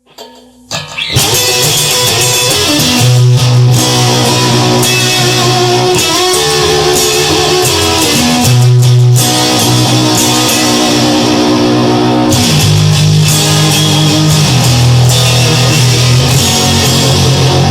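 Instrumental rock music led by electric guitar, with a bass line underneath; it builds up quickly in the first second.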